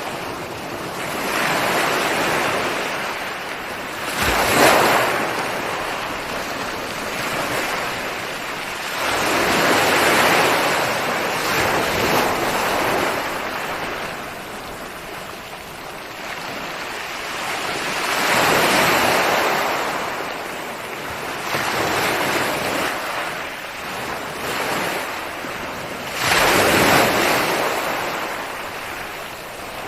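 Ocean waves breaking on a shore one after another, each a swelling and fading rush of surf, with sharper crashes about four seconds in and near the end.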